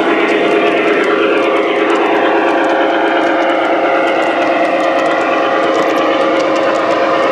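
Model train running on a layout: a steady motor hum with light, quick clicking over a faint murmur of voices.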